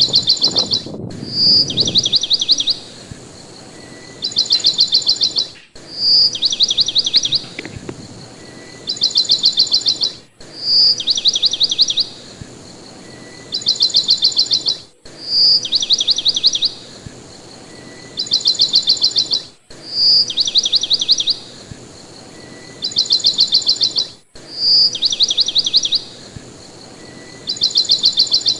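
Bird song repeating in an identical cycle about every four and a half seconds: a short high note followed by two runs of rapid trilled notes. The exact repeats, split by sudden brief dropouts, mark it as a looped recording.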